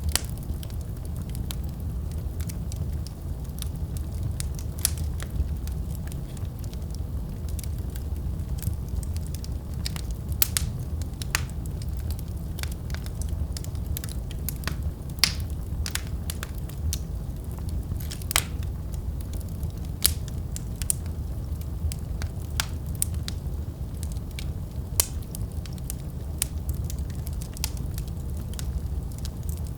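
Wood fire burning in a fireplace: a steady low rumble with scattered crackles and sharp pops at irregular intervals.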